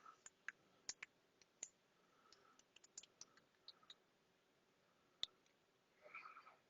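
Faint, scattered small clicks and ticks of hardware being handled while the antenna connector is screwed by hand onto a vending-machine card reader, with one louder click about five seconds in.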